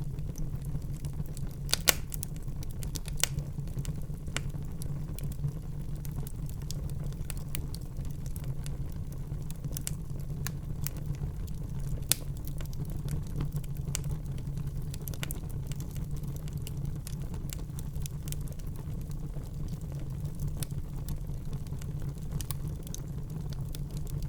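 Wood fire burning in a fireplace: a steady low rumble of flames with irregular crackles and pops, the sharpest snaps about two, three and twelve seconds in.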